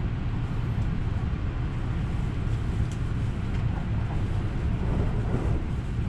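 JR West Haruka limited express train running through a station without stopping, heard from inside the passenger car: a steady low rumble of wheels on rail and running gear.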